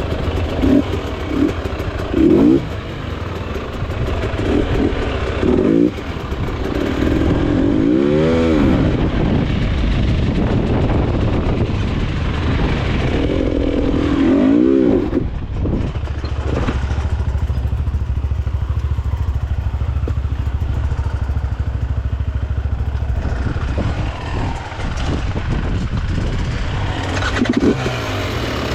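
Enduro motorcycle engine running under load, blipped up and down in sharp revs every few seconds, with steadier running in between.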